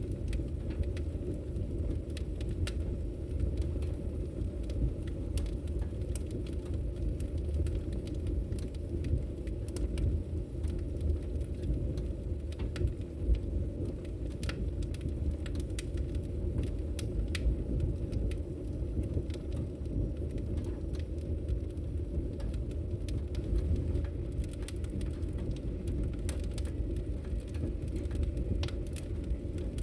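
Fire in a fireplace crackling: a steady low rumble of the flames with frequent sharp, irregular crackles over it.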